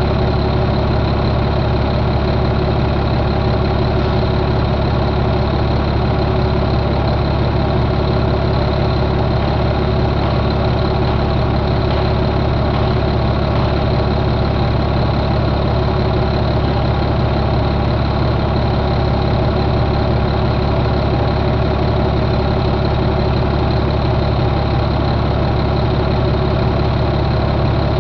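Caterpillar C7 inline-six diesel engine idling steadily, with no change in speed.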